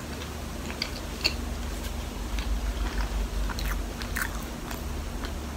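Close-miked chewing of a soft, chewy mochi with a soft filling: scattered small, irregular mouth clicks and smacks.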